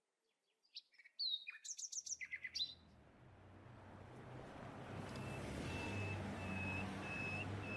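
Songbirds chirping in a quick flurry of sliding notes, then a bird repeating one short high note about every 0.7 seconds, over a low steady hum that fades in about two seconds in.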